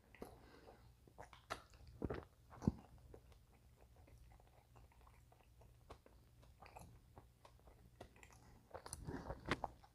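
A person chewing food close to the microphone: soft, scattered wet mouth clicks and smacks, a few louder ones about two to three seconds in and more near the end.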